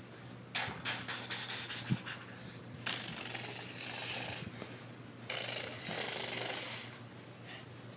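Plush stuffed animals being handled and rubbed together on carpet: a few light clicks, then two stretches of scratchy rubbing noise, each lasting about a second and a half.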